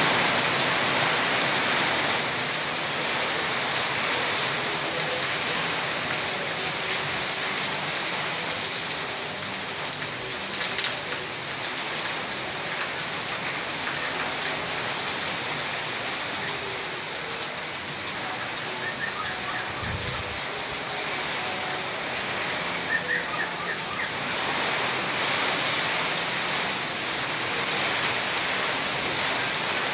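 Heavy rain pouring down steadily in a dense hiss of drops hitting a surface, with a brief low thump about two-thirds of the way through.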